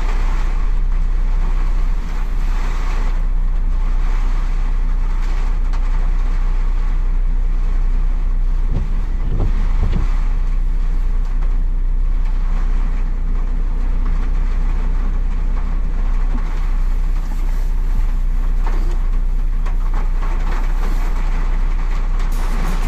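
Car driving along: a steady, loud low engine and road rumble heard from inside the cabin.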